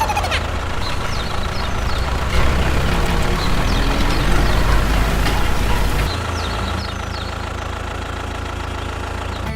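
A motor running steadily with a low rumble, overlaid by short, high chirps; the deepest part of the rumble drops off about six seconds in.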